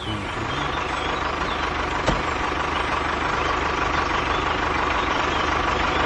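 Tractor engine running steadily, with a single sharp click about two seconds in.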